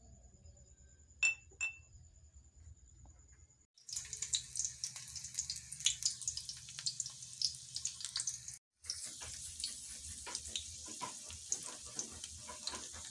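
Chopped garlic frying in hot oil in a steel wok, a crackling sizzle full of small snaps that starts suddenly about four seconds in. After a brief break it picks up again as diced red onion fries. Before that, two light clicks.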